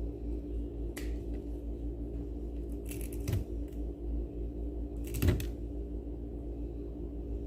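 Small parts and tools handled during a blender repair: a few short clicks and clatters, about one, three and five seconds in, the last the loudest, over a steady low hum.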